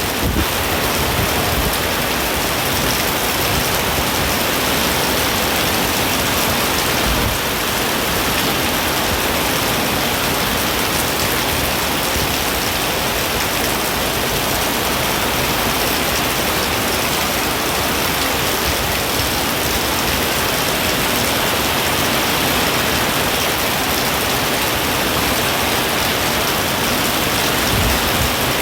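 Heavy rain pouring steadily in strong wind, an unbroken dense hiss of rain. A few brief low rumbles stand out, about seven seconds in and again near the end.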